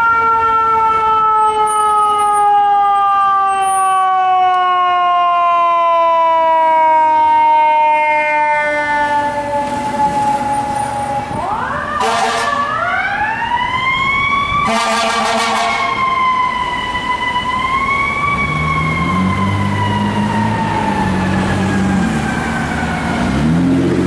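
Fire truck's mechanical siren slowly winding down in pitch, then spun up again about a third of the way in and left to coast down slowly. A low engine-like rumble comes in under it in the last few seconds.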